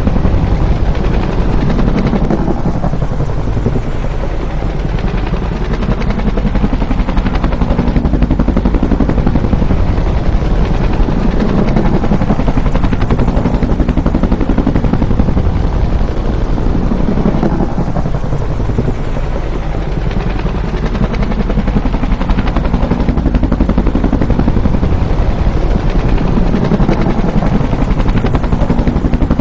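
Bell UH-1 Huey helicopter's two-bladed main rotor beating in a fast, steady chop. It swells and eases in slow waves about every fifteen seconds.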